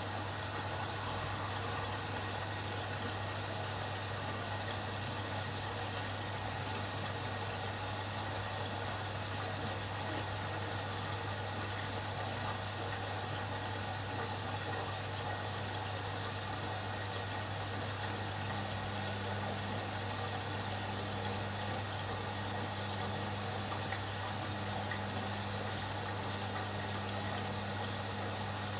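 Atlant 70C1010 washing machine running with a steady mechanical hum. A second, higher hum joins about two-thirds of the way through.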